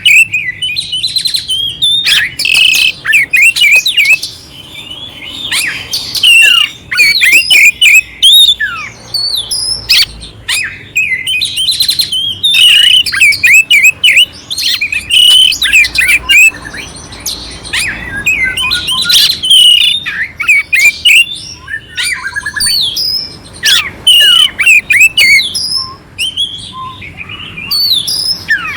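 Oriental magpie-robin (kacer) singing a loud, clear, varied song of rapid sweeping whistles mixed with rougher chattering fill-in notes, in phrases broken by short pauses.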